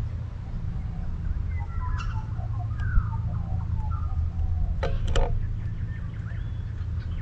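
Birds chirping and calling over a steady low rumble, with two sharp clicks close together about five seconds in.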